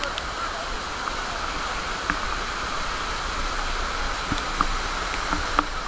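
Steady rushing of a waterfall, with a few faint clicks.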